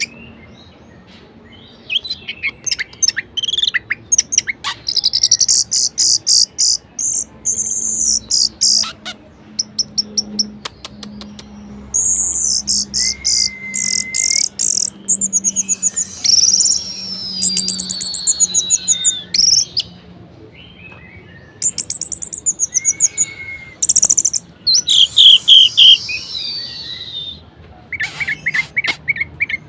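Orange-headed thrush singing a varied song: repeated bursts of rapid, high-pitched chirps and trills with short pauses between phrases, a few slurred whistles, and a falling whistle near the middle.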